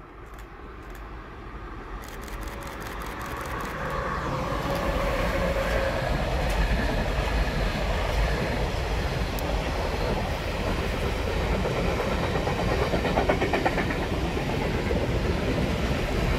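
Container freight train passing close by: the rumble of wheels on rails builds over the first few seconds as the locomotive approaches, then holds steady with a clickety-clack as the loaded container wagons roll past.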